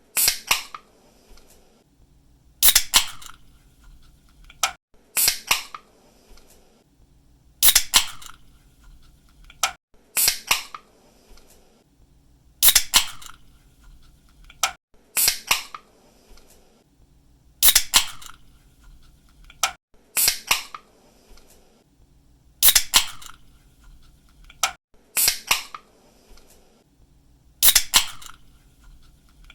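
Aluminium drink can's pull tab cracking open with a sharp click and a short fizz of escaping gas, repeated about every two and a half seconds.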